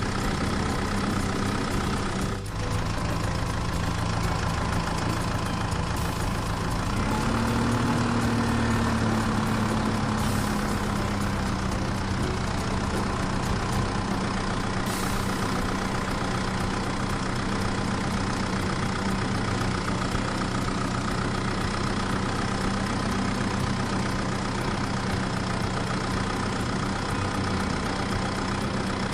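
Engine running steadily at idle, with a brief knock a couple of seconds in. About seven seconds in the engine rises in pitch and then slowly settles back to idle.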